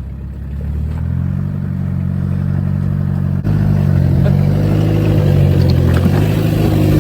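A 4x4's engine running under load as it climbs a rocky track. It grows louder about a second in and steps up sharply at about three and a half seconds.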